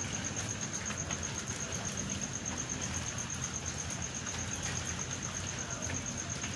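Steady rain during a thunderstorm, with a low, continuous rumble underneath.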